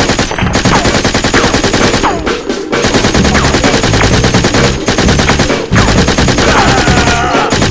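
Automatic gunfire sound effect: rapid, continuous shots, loud, with brief breaks about two and a half and five and a half seconds in and a few short falling whines.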